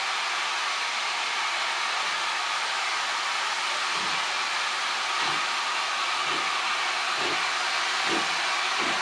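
Steam locomotive hissing steadily, then pulling away from about halfway through, with its exhaust beats starting slowly and quickening.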